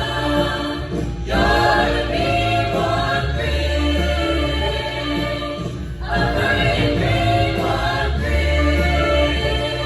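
A choir singing in harmony over accompaniment with long low bass notes, pausing briefly about a second in and again about six seconds in.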